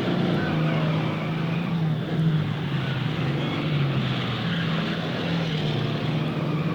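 Car engines running in a steady, low drone, the pitch shifting slightly a couple of times.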